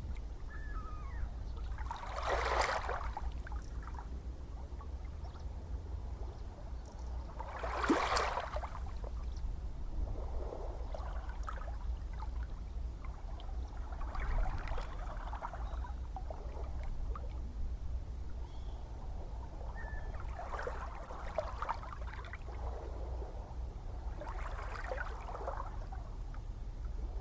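Gentle ocean waves washing in one after another over a steady low rumble of surf. The two strongest swashes come about two and a half and eight seconds in, and softer ones follow every few seconds.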